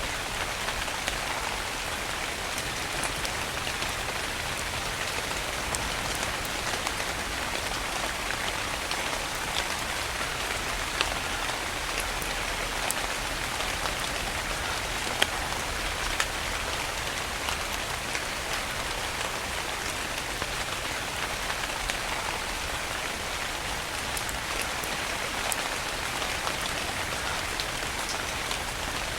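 Steady rain falling on a surface, an even hiss with individual drops ticking sharply on top, a few of them louder.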